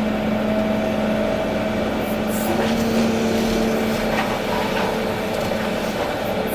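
Volvo EC380D excavator's diesel engine and hydraulics running steadily with an even hum, with a few faint knocks.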